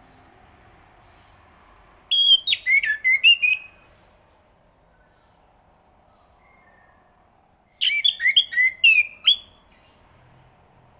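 Chestnut-capped thrush singing two short phrases of quick whistled notes sliding up and down, one about two seconds in and another about eight seconds in, over a faint steady hum.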